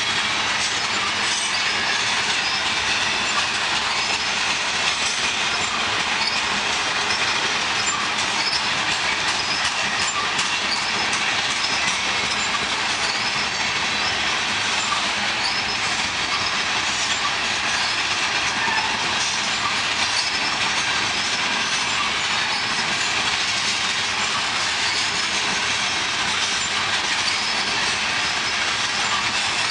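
Cars of a mixed freight train rolling past at a steady pace, a continuous even rail noise with scattered faint, high, short wheel squeaks.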